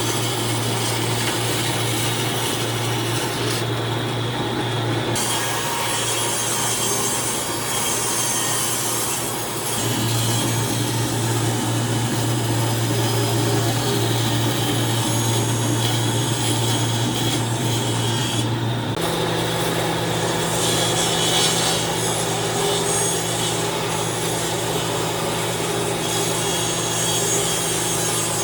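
An electric power tool working wood, running continuously with a steady motor hum under the noise of the wood being cut or abraded. The hum shifts about ten seconds in and again a little after the middle.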